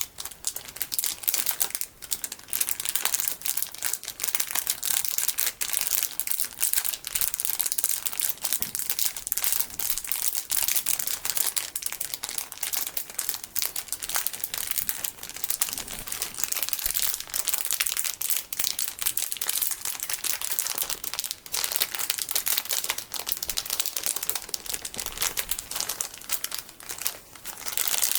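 Plastic packaging of golden sticky beads crinkled by hand: a dense, continuous crackle of fine crinkles, bright and high-pitched.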